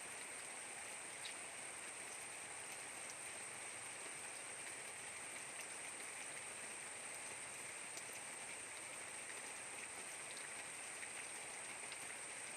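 Steady rain falling, an even hiss with scattered drops ticking, and a thin steady high tone above it.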